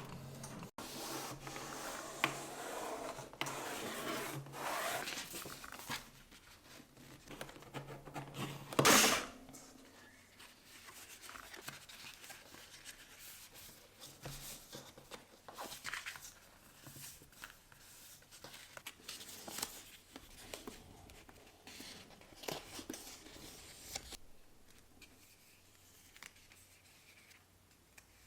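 Scattered rubbing and rustling handling sounds in a small room, busier at first. One louder, brief scraping or tearing noise comes about nine seconds in.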